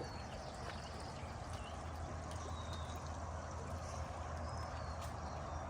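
Outdoor ambience: short, high bird chirps every second or so over a steady rushing background noise with a low hum.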